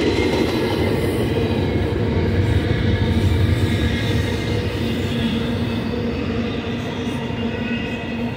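Double-stack container cars of a BNSF intermodal freight train rolling past, their steel wheels rumbling steadily on the rails under a faint steady whine. It grows a little quieter toward the end.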